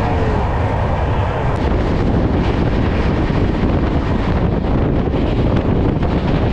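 Passenger train running at speed: a steady rumble with wind buffeting the microphone.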